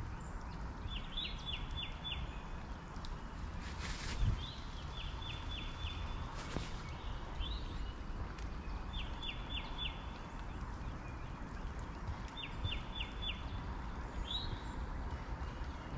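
A songbird singing, a quick run of four or five clear notes repeated about every two seconds, over a low steady rumble, with a brief thump about four seconds in.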